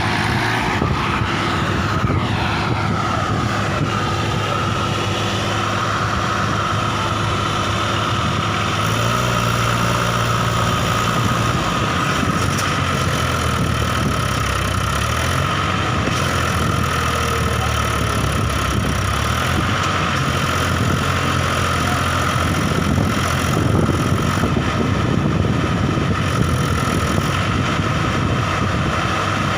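Diesel tractor engines, a Mahindra 265 and a Massey Ferguson 9500, running hard under load as the two tractors pull against each other in a tug-of-war. The engine note shifts about nine seconds in.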